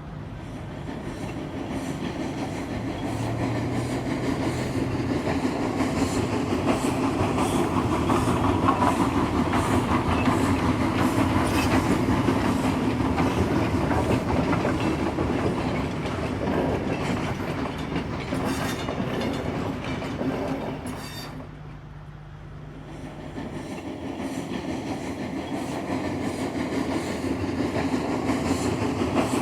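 Freight train rolling past, its wheels clicking over the joints of jointed rail. It eases off briefly past the middle, then builds again.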